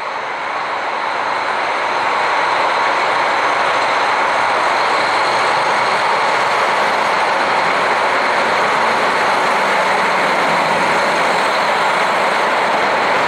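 Train running on rails: a steady rushing noise that builds over the first couple of seconds and then holds level.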